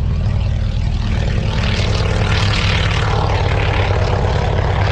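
Propeller aircraft engine running, swelling louder around the middle as the plane passes close, then easing slightly.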